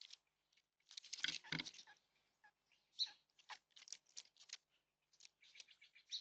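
A bird pecking and scrabbling: faint, irregular quick taps and scratches, with a heavier cluster of knocks about a second in.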